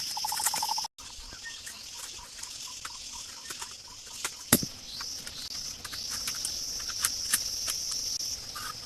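Scattered sharp knocks and clicks, one much louder about halfway, over a steady high-pitched buzz that fades in and out, with a brief cutout just under a second in.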